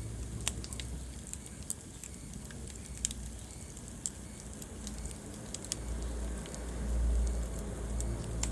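A wood fire in a fireplace crackling, with sharp pops about once a second over a low rumble of burning that grows louder for a moment near the end.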